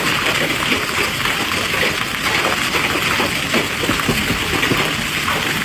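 Hailstorm: hail and heavy rain pelting hard surfaces in a dense, steady clatter of many small impacts.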